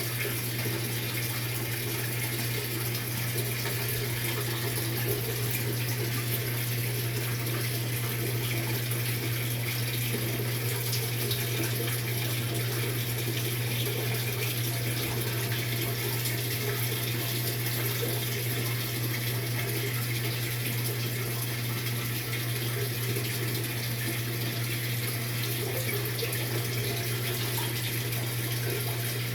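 Maytag MVWX655DW1 top-load washer running a tub clean cycle: a steady rush of water over a constant low hum, with no breaks or changes.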